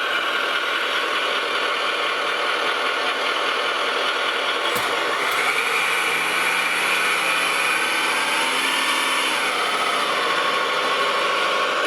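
Simulated truck engine sound played by an RC truck's electronic sound unit through a small speaker, running steadily and changing pitch about halfway through, with a single sharp click near five seconds.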